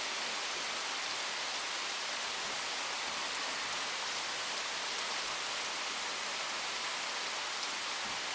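Steady rain falling from a thunderstorm: an even hiss with a few faint drop ticks.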